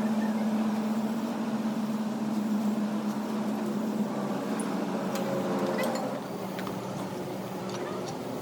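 A machine's steady hum, easing off about six seconds in, with a few light clicks.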